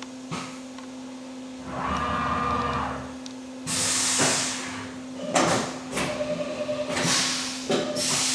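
Haas UMC 750 five-axis CNC mill running between operations: a steady machine hum, a spindle whine that comes and goes twice, and short bursts of hissing air or coolant spray.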